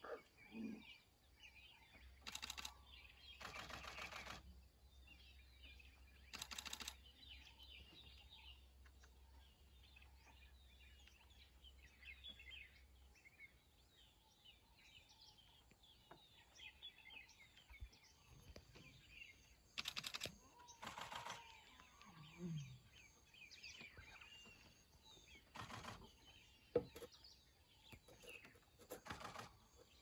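Faint chorus of small birds chirping, broken several times by short bursts of rapid clicking, typical of camera shutters firing.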